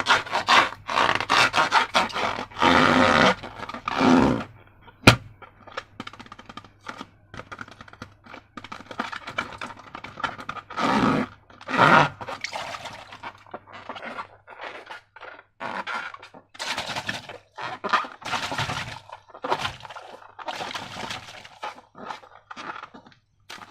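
Hands working slime with transparent balloons: a run of short scraping, squelching handling sounds, with one sharp snap about five seconds in.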